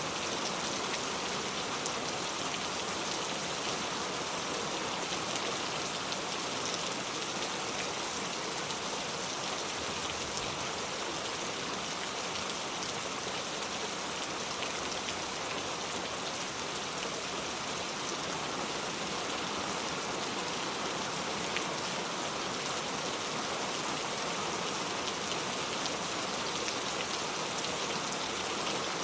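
Steady rainfall, an even hiss of rain with faint scattered drop ticks and no change in strength.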